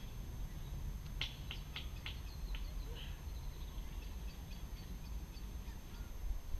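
Birds calling: a quick series of about six short, sharp chirps a little over a second in, then scattered fainter calls, over a low steady rumble.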